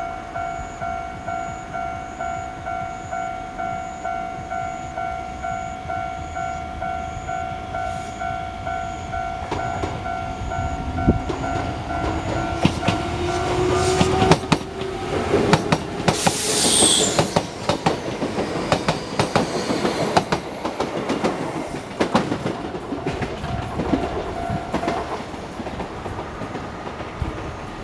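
A level crossing bell rings at an even pace, about one and a half strokes a second, and fades after the middle, as an Enshu Railway 2000 series electric train pulls out and runs past. Its traction motors whine, rising in pitch as it gathers speed. Then come the clickety-clack of wheels over rail joints and a brief high screech as the cars go by.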